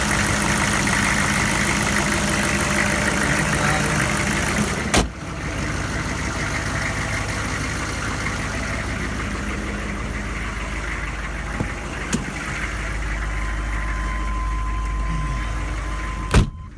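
A 6.5-litre turbo-diesel V8 in a 1998 GMC K2500 pickup idling steadily, with a sharp click about five seconds in.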